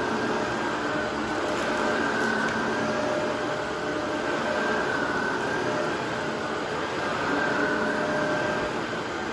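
Vacuum cleaner running steadily, its motor giving a high whine that wavers slightly in pitch over a constant rushing of air.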